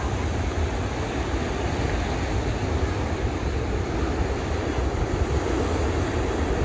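Pacific surf washing steadily, with wind buffeting the microphone in a low rumble.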